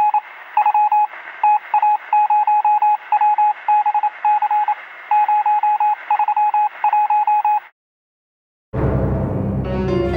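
Electronic beep sound effect at a single pitch, keyed on and off in short and long pulses like Morse code over a thin, hissy radio-like line; it stops about three-quarters of the way through. After a brief silence, a loud low rumble swells in and turns into eerie music at the very end.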